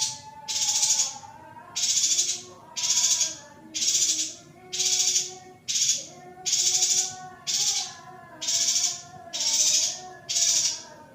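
Female yuhina call track: a harsh rasping note repeated evenly, a little more than once a second, over a faint wavering tone.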